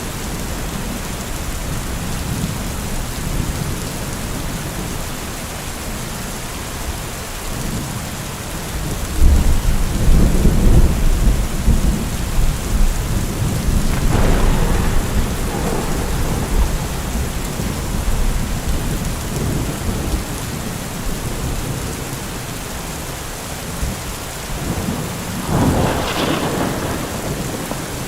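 Heavy rain falling steadily. A deep rumble swells about nine seconds in and fades over several seconds, with two shorter surges around the middle and near the end.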